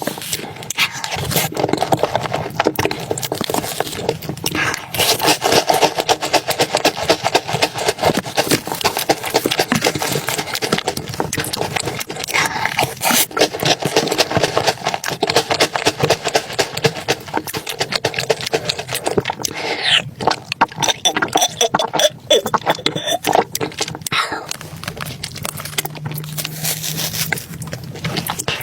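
Close-miked eating sounds of someone eating chocolate soup: a rapid, continuous run of wet mouth clicks, smacks and slurps.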